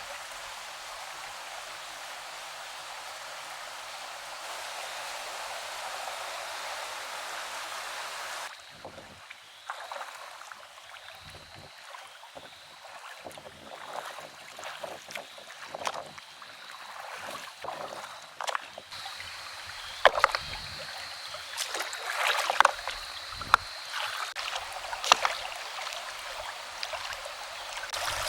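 Stream water running steadily, then irregular splashing and sloshing in shallow water, with a few louder splashes in the second half.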